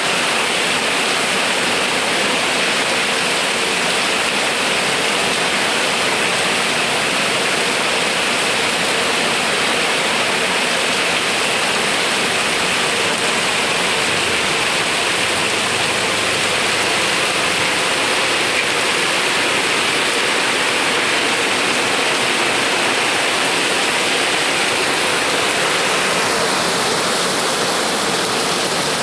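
Heavy rain pouring down, a loud, steady hiss with no break.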